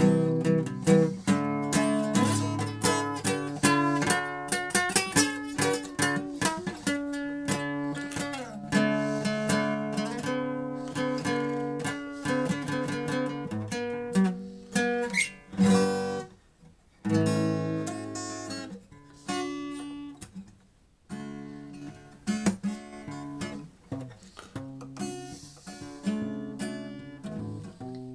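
Acoustic guitar music, plucked notes and strummed chords, with two short pauses in the middle.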